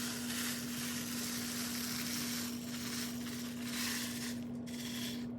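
Nerds candy poured from a box, the tiny hard candies making a steady rattling hiss. A steady low hum runs beneath it.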